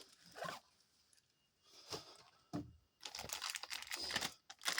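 Cardboard crinkling and clicking in a quick irregular run over the last couple of seconds, after two short soft voice-like sounds.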